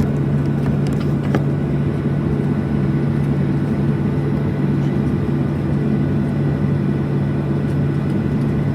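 Steady cabin noise of a Boeing 737-700 heard from a window seat: its CFM56-7B jet engines running, with a constant low hum and a dense rushing noise, and a couple of faint clicks about a second in.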